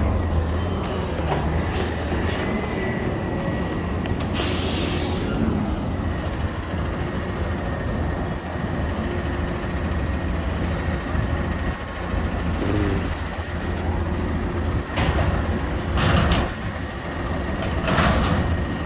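Garbage truck's diesel engine running steadily, broken by several short hisses of released air, the loudest about four seconds in.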